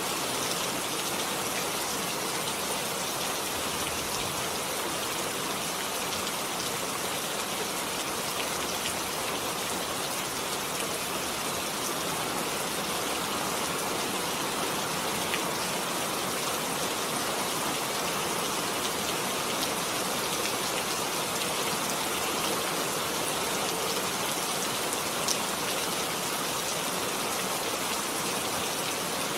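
Heavy rain falling steadily, a dense even hiss with occasional single drop taps.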